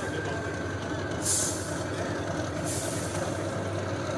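Competition truck engine running steadily, with two short hisses about a second and about two and a half seconds in.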